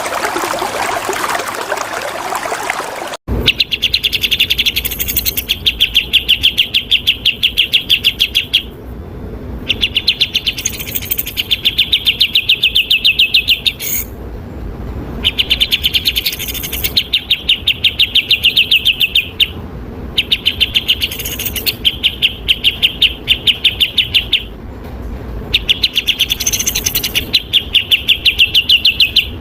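Running water for about the first three seconds, cut off abruptly. Then a bulbul sings in long, very rapid rasping trills, each lasting two to three seconds, with short pauses between them.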